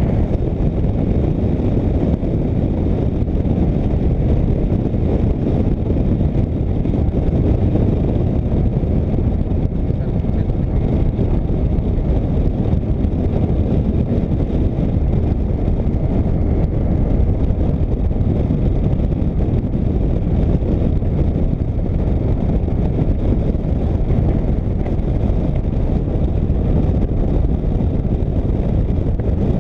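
Touring motorcycle riding at a steady cruising speed: an even rush of engine, road and wind noise on the microphone, with no change in pace.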